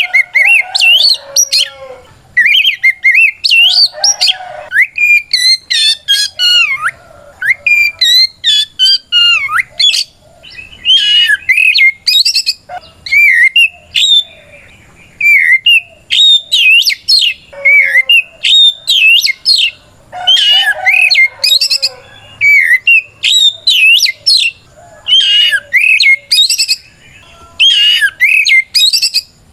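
Oriental magpie-robin singing loud, varied phrases of quick whistled notes that glide up and down, in bursts of a second or two with short pauses between them. This is its full, fighting song, a challenge to a rival.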